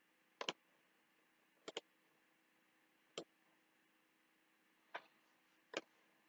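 Scattered computer mouse clicks, five in all and two of them quick double-clicks, over near silence.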